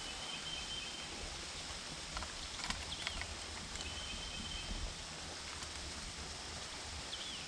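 A bird calling over quiet outdoor ambience: a short falling note and then a held high whistle, repeated about every four seconds. There are a few faint clicks in between.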